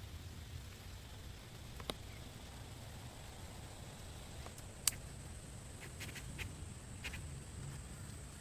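Quiet rainy forest ambience: a low steady rumble under a faint high-pitched whine, with a few sharp ticks of drops or small knocks, the clearest about two and five seconds in.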